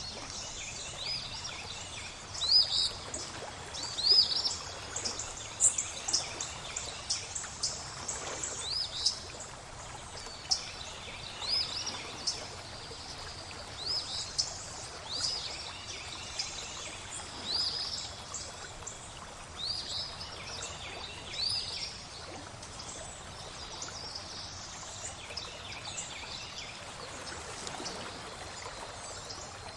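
Songbirds chirping in short, high, upward-sweeping notes about every second or two over a steady trickle of flowing water; the chirps thin out near the end.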